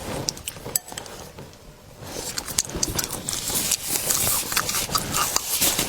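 Close-miked eating sounds: a run of wet mouth clicks and crackles while fish is chewed. It is sparser for the first two seconds, then denser.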